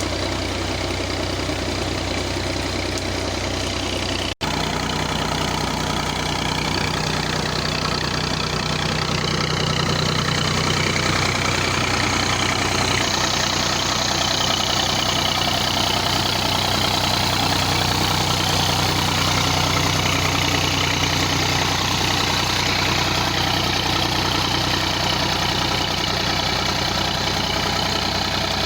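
Millat MF240 tractor's three-cylinder diesel engine running steadily while working a tubewell pump. The sound cuts out for an instant about four seconds in and grows slightly louder after about ten seconds.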